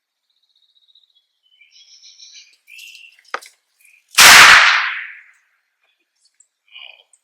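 A single loud bang with a short decaying tail, typical of a blank training pistol fired at the flush during a bird dog demonstration, after faint bird chirps.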